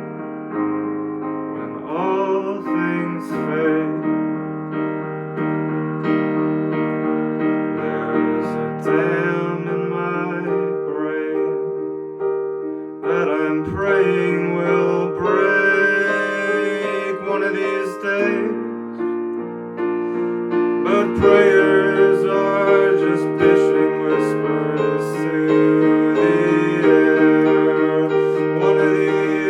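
Piano played live in a song, a run of sustained chords and melody that changes chord every few seconds.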